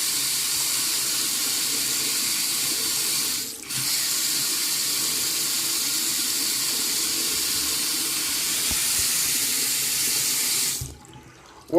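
Single-handle bathroom faucet running, a steady rush of water into the sink. It breaks off briefly about three and a half seconds in, runs again, and is shut off about a second before the end. The faucet leaks so that water goes everywhere when it is on.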